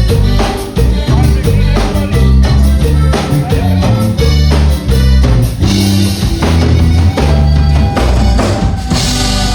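Live Tejano band playing, with a steady drum-kit beat and a strong bass line. Cymbal crashes come about six seconds in and again near the end.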